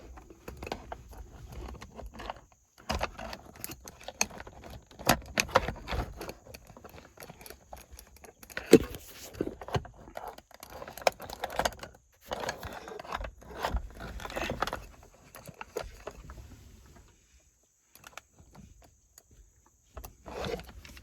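Irregular clicks, rattles and scrapes of hand work on a truck's steering-column wiring: tools and wires being handled, with one sharp click about nine seconds in.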